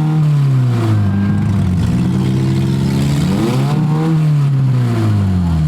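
Demolition derby car engine revving up and down: its pitch drops over the first second or so, climbs again about three and a half seconds in, then falls off near the end.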